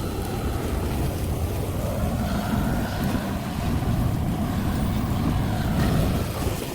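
Wind buffeting the microphone outdoors: a steady, rough low rumble.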